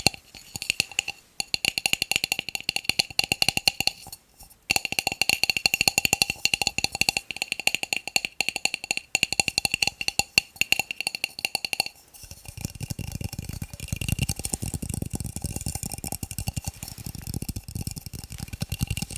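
Fast tapping on plastic cups: a dense stream of quick clicks, with the cups ringing at a few steady pitches and two brief pauses. About twelve seconds in the ringing stops and a duller, lower rapid tapping carries on.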